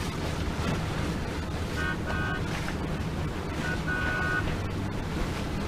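Short high-pitched boat horn toots in two groups about two seconds apart, each group a quick double blast, taken as a friendly hello from another boat. Behind them is steady wind and water noise on a sailboat under way.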